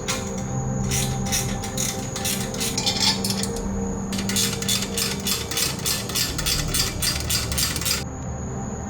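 Ratchet wrench clicking in rapid, even strokes while exhaust fasteners are tightened on a Yamaha R6, in two runs with a short break about three and a half seconds in.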